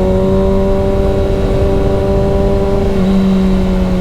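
Motorcycle engine running at a steady cruising pace with low wind rumble, its note easing slightly and shifting about three seconds in.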